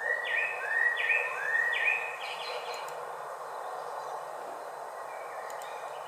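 A songbird singing a short whistled phrase, each note sweeping up then falling away, repeated about four times in quick succession in the first few seconds, with a few fainter notes later, over steady background noise.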